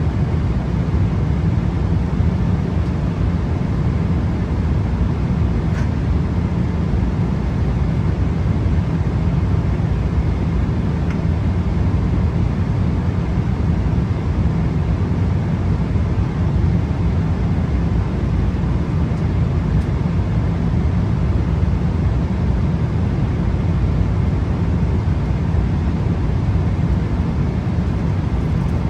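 Steady cabin noise of a Boeing 777-300 in flight: a constant low rumble with an even hiss of engines and airflow, unchanging throughout.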